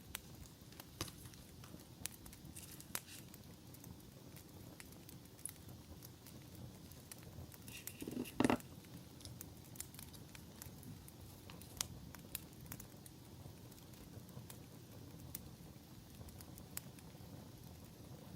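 Campfire crackling: scattered sharp pops and clicks over a low steady hiss. About eight seconds in there is a brief, louder handling noise.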